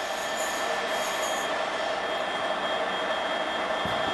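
EP09 electric locomotive hauling a passenger train as it pulls into the station: a steady rolling noise with steady high-pitched tones over it, and a brief hiss in the first second and a half.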